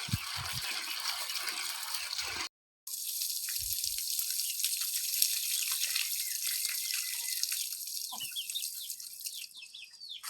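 Water splashing and trickling, then after a cut about two and a half seconds in, a thinner hiss of running water with light drips and ticks. A few short bird chirps come near the end.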